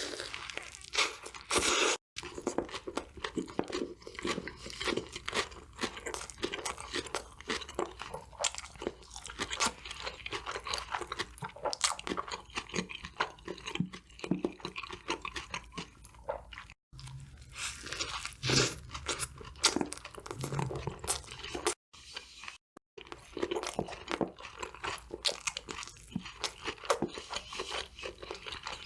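Close-miked biting and chewing of crispy KFC fried food: sharp crunches and chewing, irregular and continuous, broken by a few brief cut-outs.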